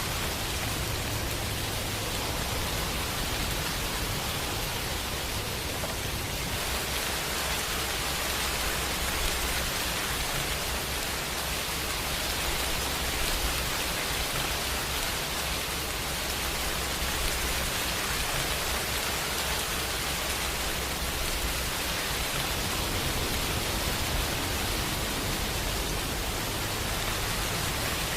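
Steady, dense rain hiss with no separate drops standing out, over a low rumble that comes and goes underneath.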